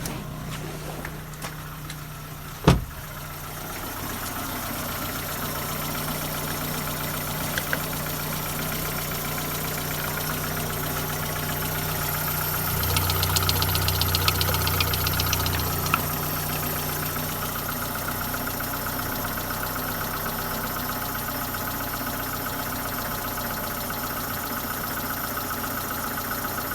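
Opel Meriva A's Z18XE 1.8-litre four-cylinder petrol engine idling steadily, with one sharp click about two and a half seconds in and a few seconds of louder running past the middle.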